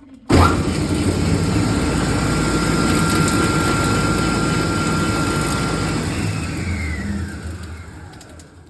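Hollymatic 180-A mixer grinder's electric motor switched on with a sudden start, running steadily with a thin whine for about six seconds, then switched off: the whine falls in pitch and the sound dies away as the machine coasts to a stop.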